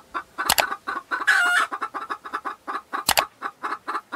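Chickens clucking in quick short notes, several a second, with one longer, drawn-out call about a second and a half in. Two sharp clicks cut through, about half a second in and about three seconds in.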